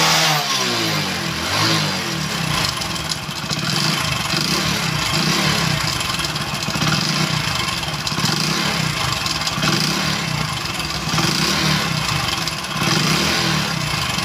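Single-cylinder engine of a 100 cc Hero Deluxe motorcycle, blipped once at the start, then running with a mechanical clatter. The mechanic puts the noise down mainly to a worn piston, with some timing-chain noise as well.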